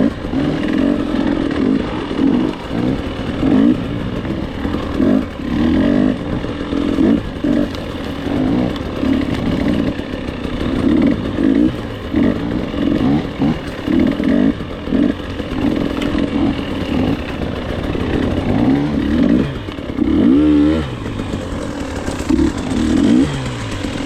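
Dirt bike engine being ridden hard, revving up and down over and over, its pitch rising and falling every second or two with the throttle.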